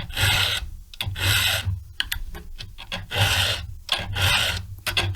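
Hand file rasping across the hardened cutters of a chainsaw chain: strokes come about once a second, with a short pause and a few light clicks about two seconds in.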